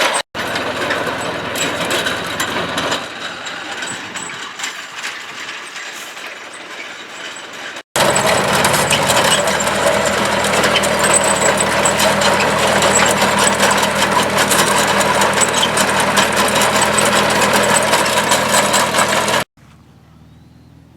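A tractor-drawn John Deere potato harvester at work: the engine runs steadily under a dense rattling clatter from the digging and conveying mechanism. The sound fades off during the first several seconds. After a sudden change it is loud and steady for about eleven seconds, then drops abruptly to a much quieter background near the end.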